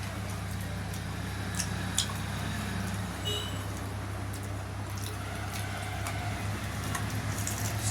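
Eating sounds: scattered soft smacks and clicks of chewing dhido and spicy chicken, over a steady low hum.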